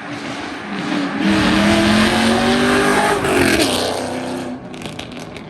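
A car accelerating hard past, its engine note climbing in pitch, loudest about two seconds in, then dropping in pitch and fading as it goes by.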